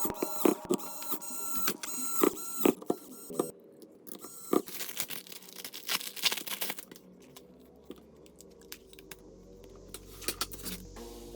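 Irregular small clicks and taps of hand work on a phone's plastic and metal parts, thinning out after about seven seconds, with a faint low hum coming in near the end.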